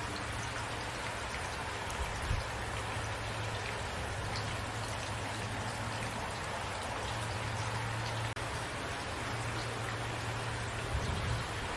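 Steady rainfall, the even hiss of rain with individual drops pattering on a surface, over a low steady hum. The sound drops out for an instant about eight seconds in.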